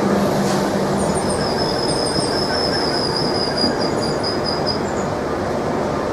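Train running on the rails with steady heavy rail noise; from about a second in to about five seconds in, the wheels give a thin, high squeal against the track.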